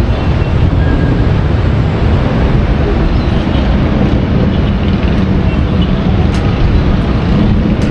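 Loud, steady rumbling noise with a few faint clicks near the end.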